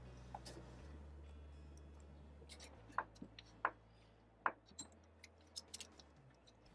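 Faint, scattered metallic clicks and clinks, about half a dozen over a few seconds, from a key lockbox and its key being handled to unlock a boat's cable lock.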